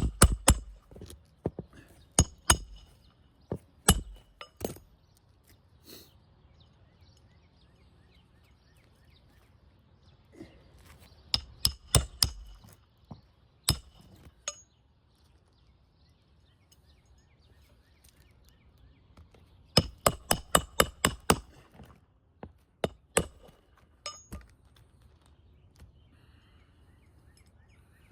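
Hand hammer driving roofing nails into asphalt architectural shingles, in clusters of sharp, ringing metallic strikes separated by pauses. The longest cluster is a quick run of about eight blows some 20 seconds in.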